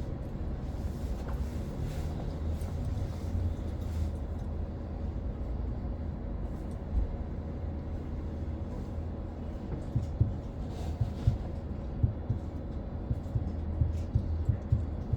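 Interior ride noise of a BYD BD11 electric bus on the move: a steady low rumble with a faint steady whine. From about ten seconds in, a run of short knocks and thumps joins it.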